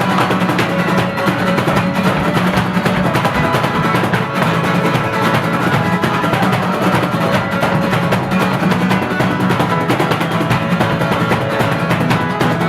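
Live folk-punk band playing an instrumental passage between sung lines: strummed acoustic guitar with drums keeping a steady beat.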